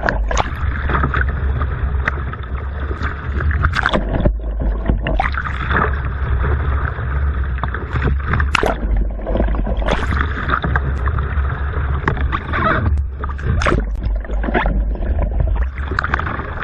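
Water splashing and sloshing around a Jackson Karma kayak during screw-roll practice, with sharp paddle splashes every few seconds over a steady low rumble.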